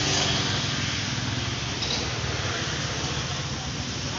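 A motor vehicle engine running at low revs, a steady low rumble that eases slightly after about two and a half seconds, over street noise.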